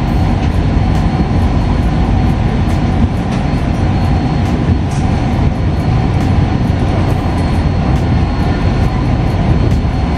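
Jayabaya passenger train running at speed: a steady, dense rumble of wheels on rail, with faint scattered clicks over it.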